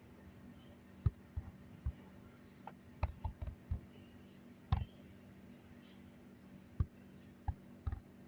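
Scattered soft clicks and knocks, about a dozen at uneven intervals, over a faint steady hum.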